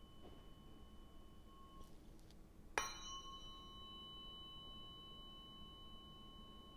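Tuning fork used in Biofield Tuning sound healing, struck sharply about three seconds in and left ringing on in a clear, slowly fading tone with high overtones. Before the strike, a fainter ring from the previous strike still hangs on.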